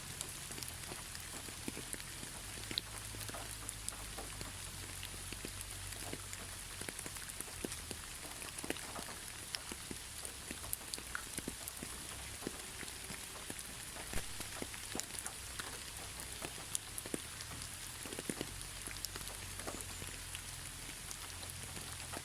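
Gentle, steady rain with no thunder: a constant soft hiss with many individual drops ticking sharply on a nearby surface.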